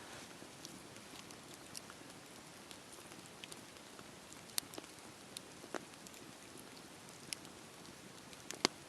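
Campfire burning: a steady soft hiss of flames with scattered sharp crackles and pops, a few louder ones about halfway and the loudest near the end.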